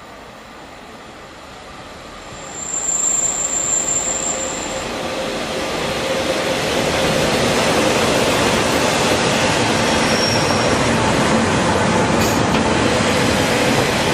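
Train running along the platform rails, getting loud about two and a half seconds in with a brief high squeal, then a steady rumble of wheels on track.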